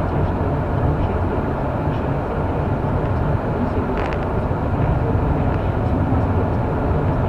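Steady low rumble of a car driving, engine and tyre noise, with one short click about four seconds in.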